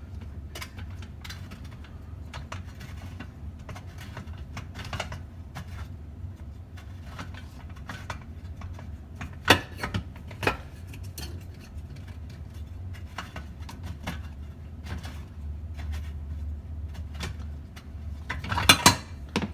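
Hands working dishwasher parts loose: a run of small clicks and rattles of plastic pieces, with two louder knocks about halfway through and a clatter near the end.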